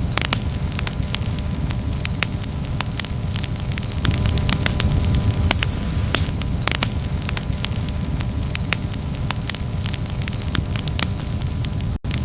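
Wood campfire burning, with frequent sharp crackles and pops over a steady low rumble. The sound cuts out for a split second near the end.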